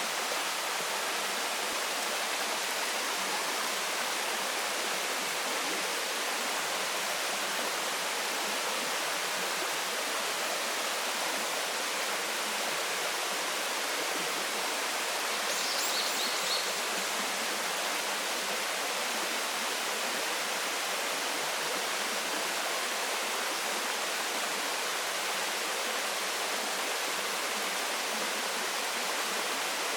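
Waterfall: a steady, unbroken rush of falling water. There are a few brief high chirps about halfway through.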